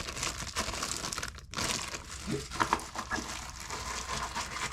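Plastic packaging crinkling and rustling as it is handled, with a few small clicks.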